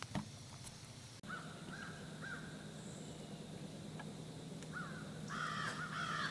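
Wild birds calling in woodland: a few short calls spaced apart, then a quicker run of calls near the end.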